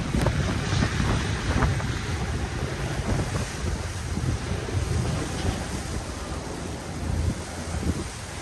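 Wind gusting across the microphone: a low noise without any tone that rises and falls in gusts.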